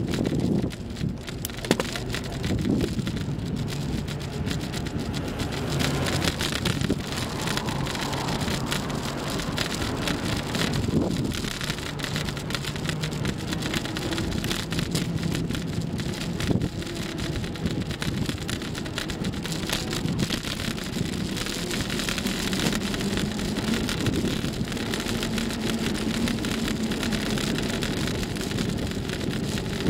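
Steady rushing wind and road noise from a moving bicycle ride, with a faint low hum and a few knocks.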